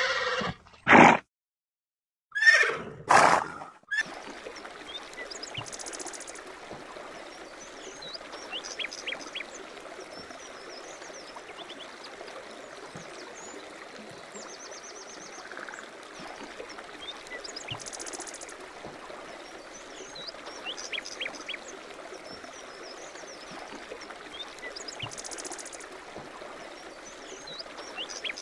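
Two loud animal calls in the first four seconds, the second about two seconds after the first. Then a steady sound of running water, with small birds chirping over it.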